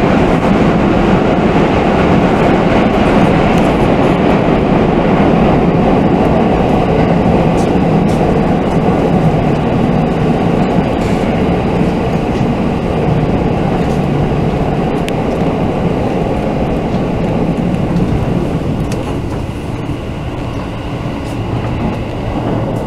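Running noise heard inside a JR West 221 series electric train, a steady loud rumble of wheels on rail and traction motors as it runs through a tunnel. The noise eases a little near the end.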